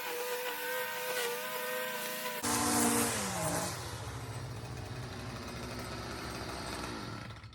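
Stihl FS55R two-stroke string trimmer engine running at high speed with a steady whine, on its newly fitted replacement carburetor. About two and a half seconds in the sound changes abruptly and the engine pitch falls away, leaving a low rumble.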